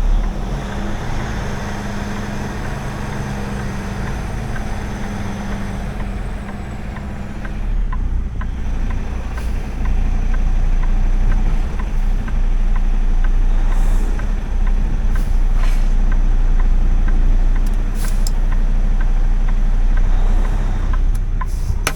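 Semi truck's diesel engine running steadily, getting louder about a third of the way through as it is put under more load, with a few short clicks and hisses later on.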